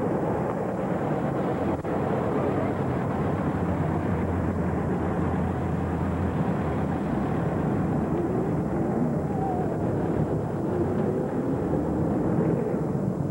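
Monster truck engine running loud and continuous, with its pitch rising and falling as it revs through the middle stretch.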